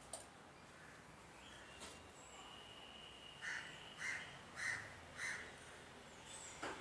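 A bird calling four times in a row, a little over half a second apart, over a faint steady high tone.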